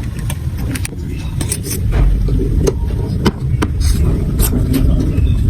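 Marbles rolling down a plastic block marble run: a continuous low rolling rumble with many irregular sharp clicks as the marbles strike the track pieces and each other.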